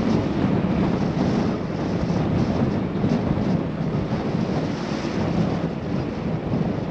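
Wind rushing over a GoPro's windscreened microphone while cycling, a steady noise that swells and falls in gusts.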